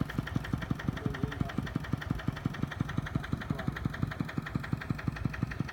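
Kubota two-wheel walking tractor's single-cylinder diesel engine running steadily at low speed, with an even, rapid chugging beat.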